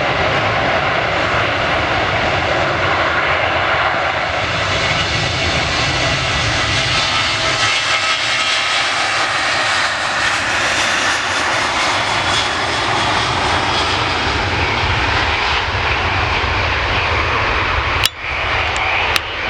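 Airbus A330 twin-engine airliner coming in to land, its jet engines making a loud, steady noise. The noise drops away abruptly near the end, with a few clicks.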